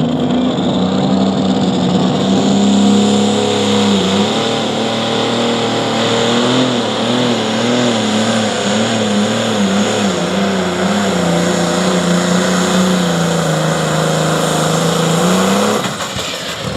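Pro Stock pulling tractor's turbocharged diesel engine running flat out under load as it drags the sled, with a high whine over it. The engine pitch wavers up and down through the pull, then falls and cuts back about 16 seconds in as the run ends.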